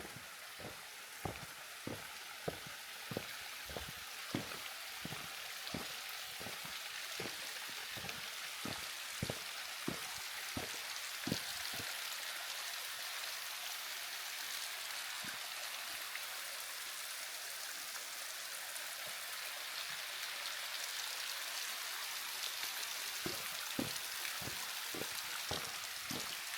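Footsteps of a person walking at a steady pace, with steady rushing water behind them. The steps stop about twelve seconds in and start again near the end, while the water grows a little louder.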